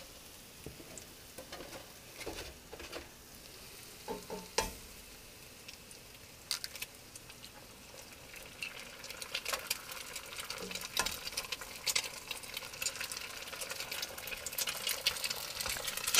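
Onions and jalapeños frying in olive oil in a skillet, with eggs cracked into it: a crackling sizzle with a few sharp clicks, the sizzle growing louder and busier from about halfway through.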